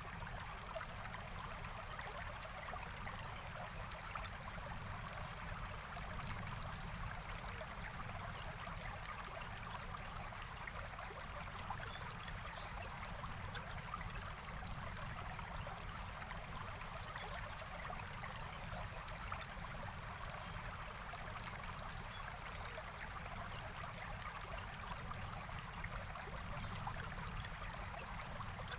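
Forest stream flowing steadily, an even rush of water, with a few faint high bird chirps now and then.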